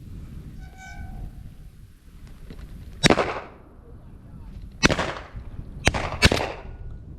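Four shotgun shots fired at flushing pigeons: one about three seconds in, another nearly two seconds later, then two in quick succession near the end, each echoing briefly.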